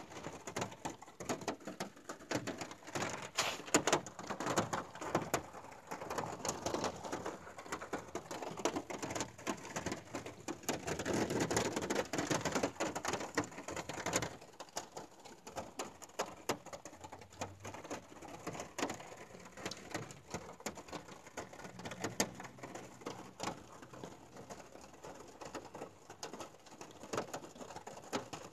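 Rain pattering and drumming on a car's roof and windows, heard from inside the car as dense, irregular drop taps. Heavier in the first half, it eases to lighter tapping about halfway through.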